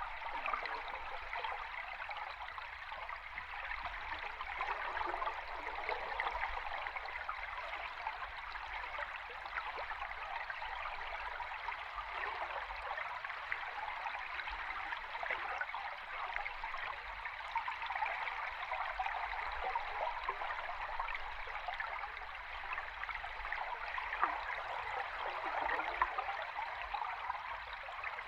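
River stream recorded underwater: a steady rush of flowing water with a dense, fine crackle.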